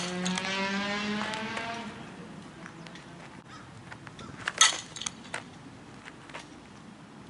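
A motor vehicle's engine accelerating past, its pitch rising a little over the first two seconds before fading away. A few sharp knocks follow about four and a half seconds in.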